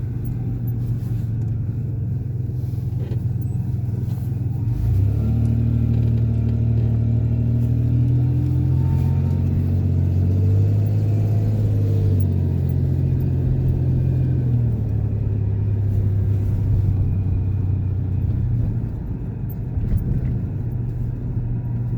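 Motor vehicle engine running while driving, with road rumble. The engine note rises as it accelerates from about five seconds in, then falls back and holds steadier after about fifteen seconds.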